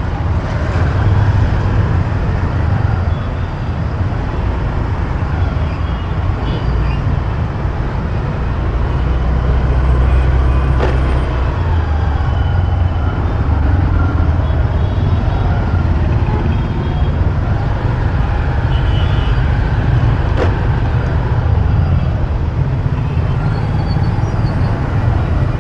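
Steady road noise of a motorcycle ride through heavy city traffic, with engines of cars, buses and trucks running close by and a strong continuous low rumble. A couple of sharp clicks stand out, one about halfway through and one later.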